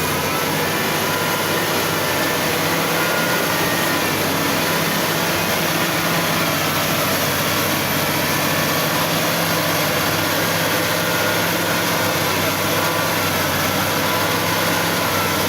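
XCMG ZL50GN wheel loader's diesel engine running steadily at an even speed, with a faint high whine over it.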